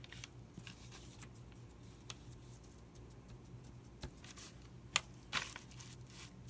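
Faint handling of brown packing paper at a worktable: soft rustles and scattered light ticks and taps as the paper is measured, with one sharper click about five seconds in, over a steady low hum.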